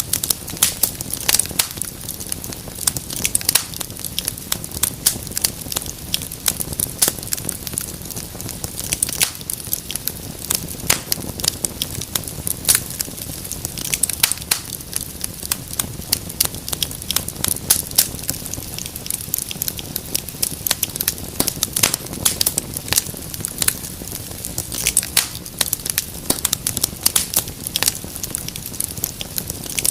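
Wood fire crackling in a fireplace: dense, irregular sharp pops and snaps over a steady low hiss and rumble of the flames.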